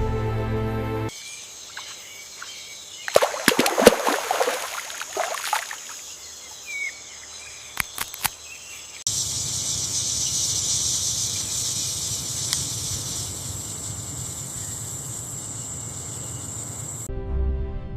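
Outdoor nature ambience with a steady high insect buzz, louder from about halfway through. A short run of splashing or rustling noises and a few sharp clicks come in the first half. Background music fades out at the start and comes back just before the end.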